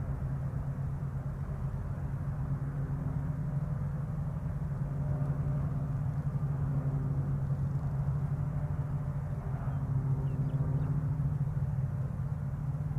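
Diesel freight train running by: a steady low rumble with the drone of locomotive engines, swelling slightly in the middle.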